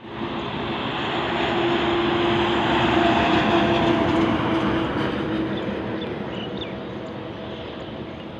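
A heavy vehicle passing by, its rumble with a steady drone swelling to its loudest about three seconds in and then slowly fading away.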